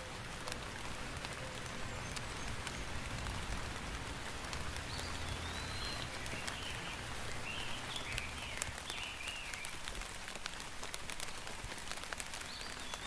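Steady rain falling, a constant hiss dotted with sharper drop clicks. A few short, high, wavering calls sound midway through.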